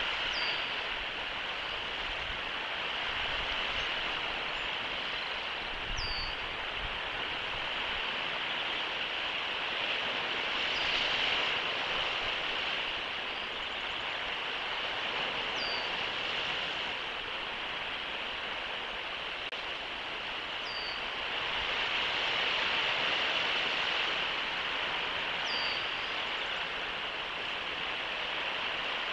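Steady rushing outdoor background noise, swelling and easing slightly, with a bird giving a single short, high, falling chirp about every five seconds.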